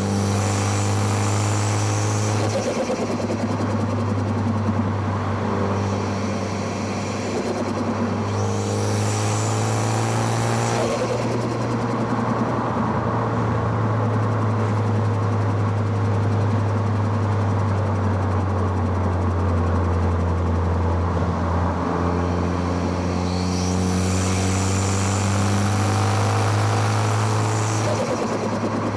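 Four-cylinder car engine heard at its intake and exhaust under hard driving. The note climbs with the revs and drops back at gear changes several times.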